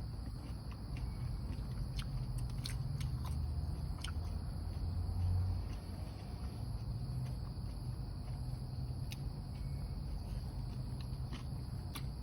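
Chewing and eating with scattered small sharp clicks, over a steady high insect trill and a low rumble.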